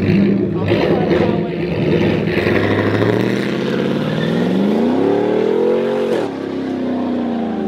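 Car engine revving hard, its pitch climbing for a couple of seconds and then dropping away sharply about six seconds in.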